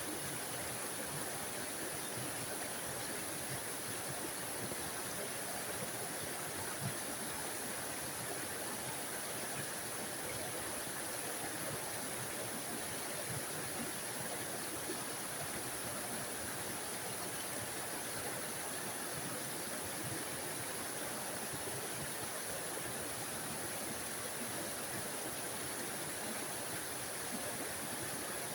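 Small forest waterfall: water splashing and running over rocks in a steady, even hiss.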